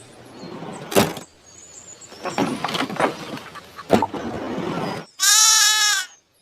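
A dog barking, with two sharp barks about a second and about four seconds in, then a sheep bleating once near the end: a loud, wavering baa just under a second long.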